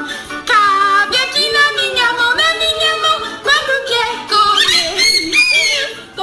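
Cockatoo singing a children's song, a single wavering voice gliding from note to note.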